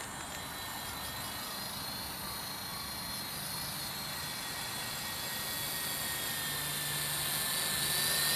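Large single-blade radio-controlled helicopter's electric motor and rotor running in flight, a steady high whine that slowly grows louder toward the end.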